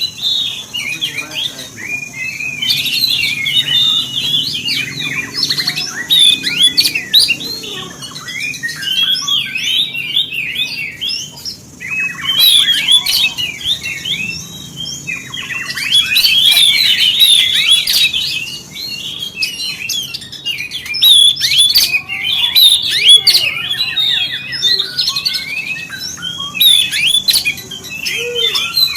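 Oriental magpie-robin (kacer) singing: fast runs of varied whistles and chirps in phrases of a few seconds with short pauses between them.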